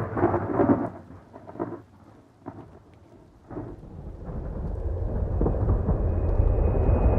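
Thunder rumbling in a couple of surges over the first two seconds, then steady rain that builds up and grows heavier toward the end.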